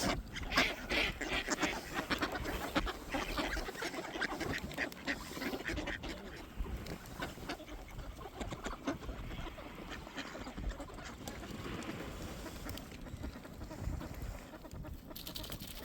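Several ducks quacking in a feeding frenzy. The calls and quick clicks come thick and fast for the first six seconds or so, then thin out.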